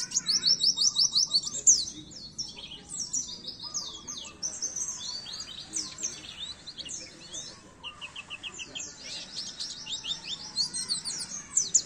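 Small songbird, a white-eye (pleci), singing a fast, high twittering song of rapid downward-sweeping notes, densest at the start and again near the end.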